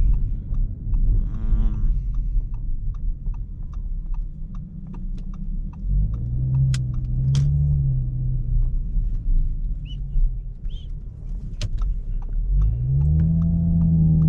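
Audi S5 driving, with a steady low engine and road rumble. The engine note swells about six seconds in and climbs again near the end as the car accelerates.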